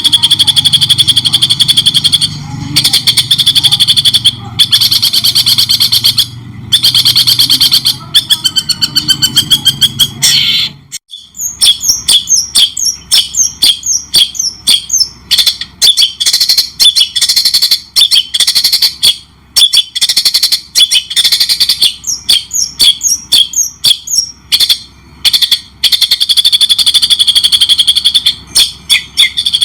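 White-rumped shama singing rapid, chattering, stuttering phrases, loud and repeated with short pauses between bursts. A low background rumble under the song drops out suddenly about eleven seconds in.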